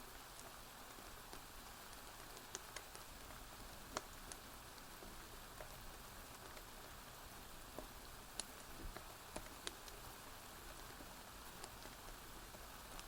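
Soft steady rain hiss with scattered sharp pops and crackles from a wood fire, the loudest about four seconds in and again a little past eight seconds.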